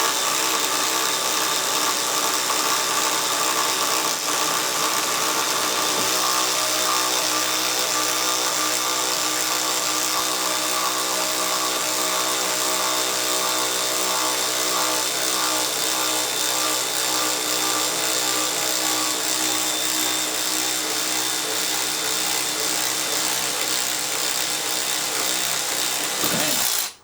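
A motor-driven machine running steadily at one speed, a constant whine with a hiss over it, that stops abruptly near the end.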